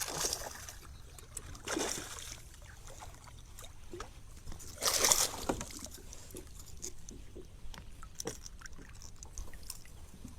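Water splashing and sloshing at the side of a kayak, in a few separate splashes, the loudest about five seconds in, with small knocks and clicks between them.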